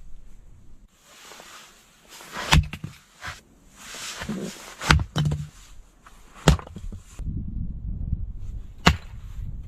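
Four sharp snaps or knocks spaced about two seconds apart, among rustling and handling noise.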